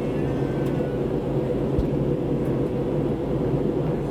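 Steady low drone of an airliner's engines and airflow heard from inside the passenger cabin in flight, with a few faint steady tones.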